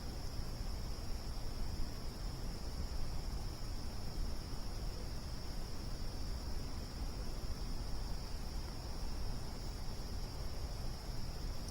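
Steady, unbroken high-pitched chorus of insects such as crickets, over a constant low rumble that may come from the campfire.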